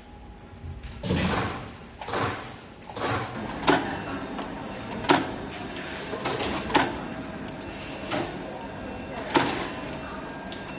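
Wire harness processing machinery working: a series of sharp mechanical strokes at uneven intervals, roughly one every second, each with a brief swish and a short ring after it.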